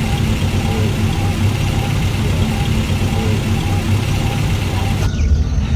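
Vehicle engine idling steadily with a low, even hum; about five seconds in the background hiss drops away while the engine keeps running.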